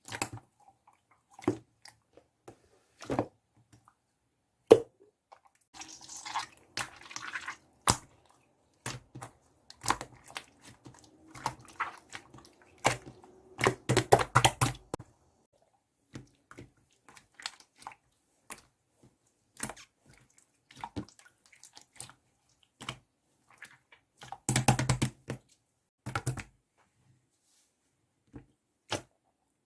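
Irregular, scattered taps and clicks, each brief, with a few denser clusters of noisy clatter: one about six to eight seconds in, a longer stretch peaking near fourteen seconds, and another near twenty-five seconds.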